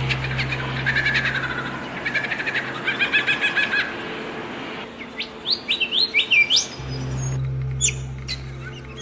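Songbirds chirping and singing: rapid runs of repeated high notes, then a series of quick upward-sweeping whistles about five seconds in, with scattered sharp high calls near the end. A steady low hum runs under the first and last parts.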